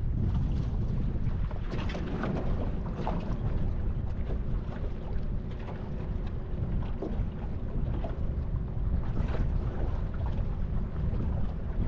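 Wind buffeting the microphone on a drifting boat, a steady low rumble, with short splashes of water against the hull scattered through it.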